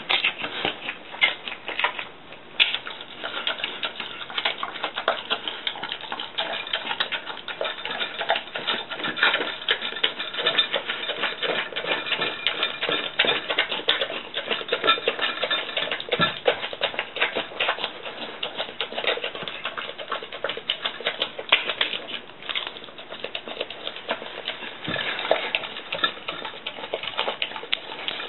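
Bull terrier eating natto rice: a dense, continuous run of rapid clicking and smacking chewing sounds, with a few stronger knocks.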